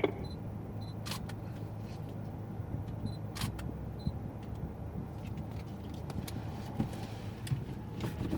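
Lexus GS200t's turbocharged 2.0-litre four-cylinder idling steadily while the car stands waiting, with a few light clicks and short faint high beeps over it.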